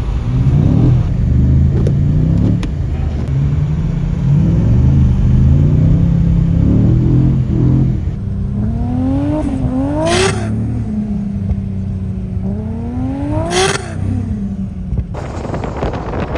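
Toyota Supra MK4's big-turbo 2JZ six-cylinder engine, tuned to about 1000 hp, running and revving under load, its pitch rising and falling. Later the revs climb twice, and each climb ends in a sharp crack as the revs drop away.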